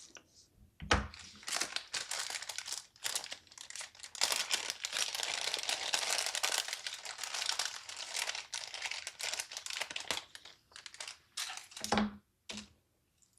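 Plastic packaging crinkling and crackling as it is handled and opened by hand, with scattered sharp clicks, then a few separate clicks and light knocks near the end.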